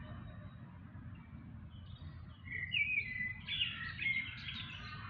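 A songbird singing: a run of short, high notes, some sliding in pitch, starting about halfway through and loudest in the middle, over a steady low rumble.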